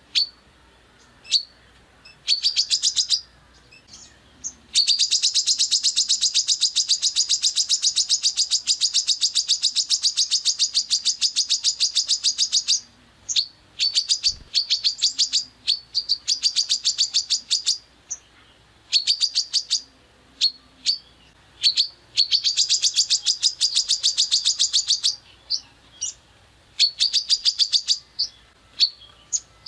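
A songbird's harsh, rapid-fire 'tembakan' song: sharp high notes repeated about ten a second. It comes in long rattling runs, the longest lasting about eight seconds from about five seconds in, broken by short bursts and gaps.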